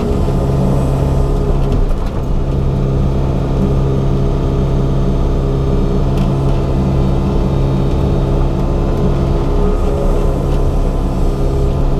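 Yanmar SV100-2A excavator's diesel engine running at a steady pitch under work, with a few faint knocks over it.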